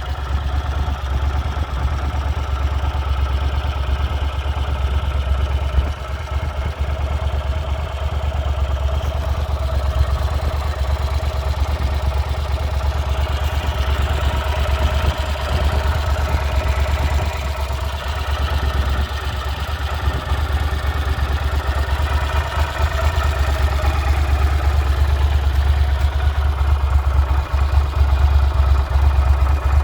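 1996 Yamaha TDM 850 parallel-twin engine idling steadily while warming up after a cold start, growing a little louder near the end.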